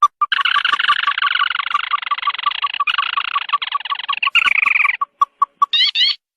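Ruddy-breasted crake calls: a fast series of short repeated notes under a long, dense chattering trill that stops about five seconds in, followed by a few quick rising notes near the end.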